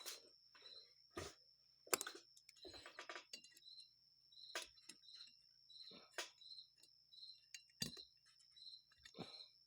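Faint, scattered clicks and taps of a small screwdriver against a carburetor float and its metal parts while the float tang is bent to set the float level. A faint high chirp repeats about twice a second underneath.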